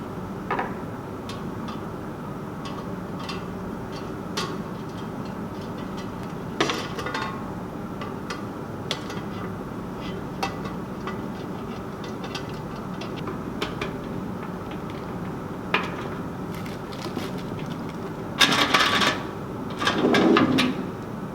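Air conditioner humming steadily, with scattered small knocks and clicks of objects being handled. A louder clatter and rustle comes near the end.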